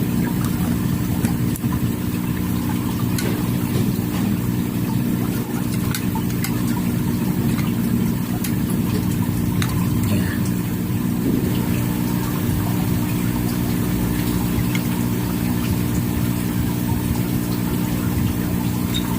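A steady engine or motor hum running evenly at one speed, with a few faint clicks over it.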